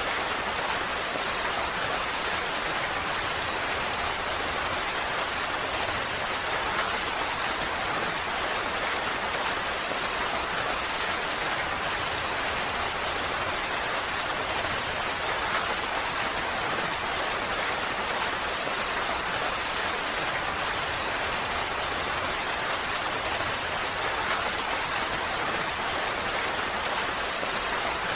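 Steady rain falling, an even hiss with the odd faint tick of a single drop.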